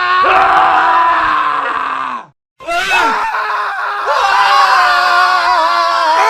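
Man screaming at full voice. The scream falls in pitch and cuts off about two seconds in, and after a brief silence another man's long scream begins.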